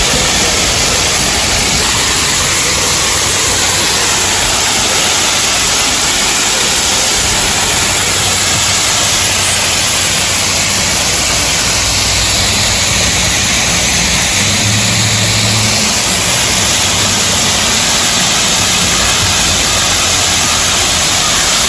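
Steady rush of water falling at a small waterfall. A vehicle passes about two-thirds of the way through, adding a low engine hum for a few seconds.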